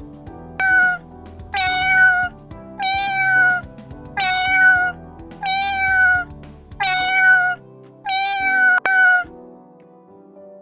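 Domestic cat meowing seven times at even intervals, each meow short and alike, over soft background music.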